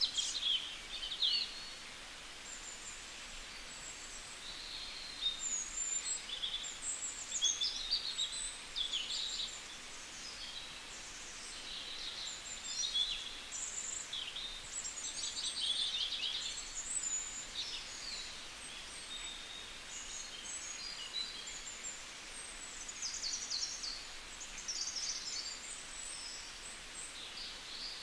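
Birds chirping and trilling in many short, high calls one after another, over a steady faint background hiss.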